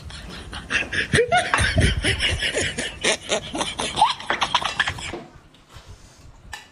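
A person laughing in quick breathy bursts, with a few rising squeals, cutting off abruptly about five seconds in.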